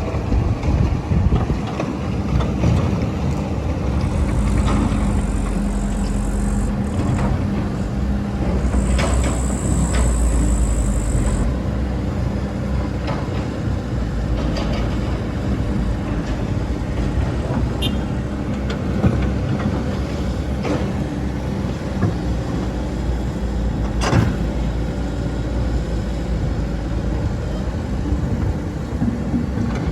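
Excavator's diesel engine running steadily while digging, twice working harder for a few seconds with a high-pitched hydraulic whine, and a few sharp knocks.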